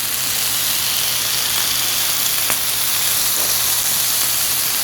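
Thick slices of pork belly sizzling on a hot grill, a steady loud hiss with a single small pop a little past halfway.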